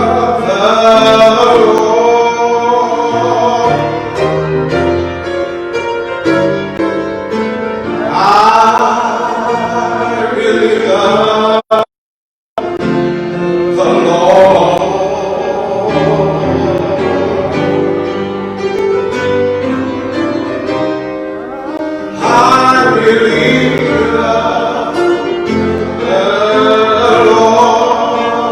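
Gospel music: voices singing over keyboard accompaniment. The sound cuts out completely for under a second about twelve seconds in.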